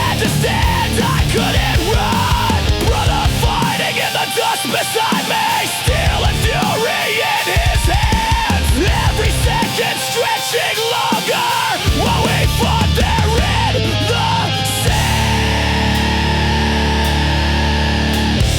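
Cinematic heavy metal music: a bending, wailing lead melody over distorted rhythm and drums. About fifteen seconds in, the drumming thins out and steady held low chords take over.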